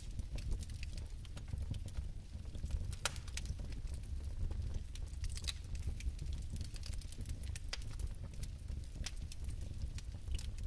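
Fire burning in a fireplace: a steady low rumble of flame with irregular sharp crackles, roughly one a second.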